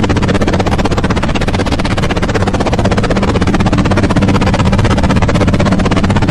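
Helicopter rotor sound: a loud, steady, rapid chopping that holds evenly throughout.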